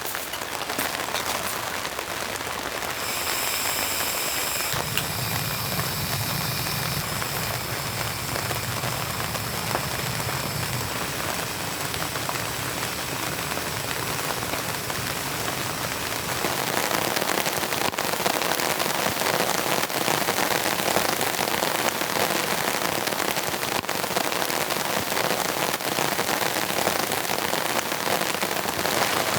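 Steady rain falling, growing louder about halfway through.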